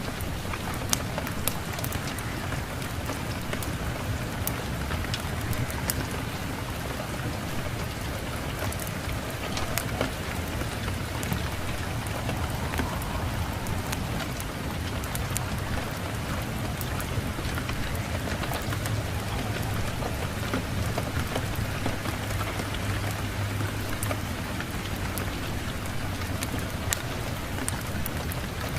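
Steady rain falling, with scattered sharp crackles and a low rumble underneath.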